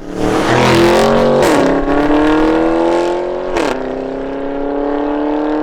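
Audi RSQ8's twin-turbo 4.0 V8 through a Capristo straight-pipe exhaust, accelerating hard. The engine note climbs steadily and drops twice, about a second and a half in and again about three and a half seconds in, as it upshifts. A sharp crack comes with the second shift.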